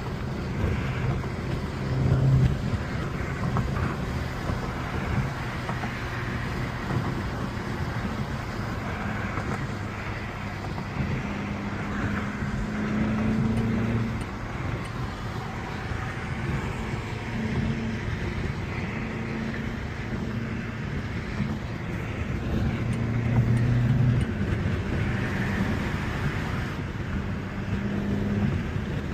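BMW 330i engine pulling under acceleration, its note climbing and dropping a few times as it goes up through the gears, over steady road and traffic noise.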